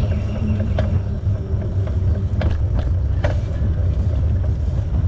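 Steady low rumble of a bicycle riding along a trail, tyre noise mixed with wind on the microphone, with a few sharp clicks.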